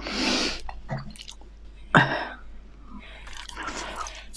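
Close-miked chewing and wet mouth sounds of a person eating, with a sharper, louder mouth sound about two seconds in.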